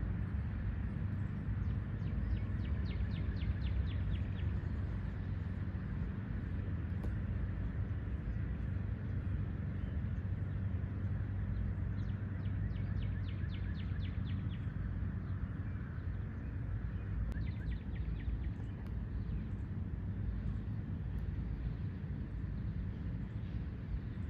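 A small songbird singing a trill of rapid repeated notes three times, each a second or two long, over a steady low rumble.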